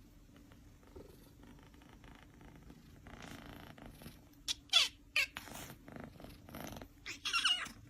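Domestic cat purring low and steady, with a few short high cries: one falling in pitch about halfway through, a brief one just after, and a longer wavering one near the end.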